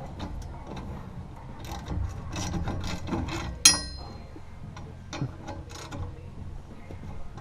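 Hand socket ratchet clicking in short runs while loosening the exhaust flange bolts, with a sharp ringing metallic clank a little past halfway.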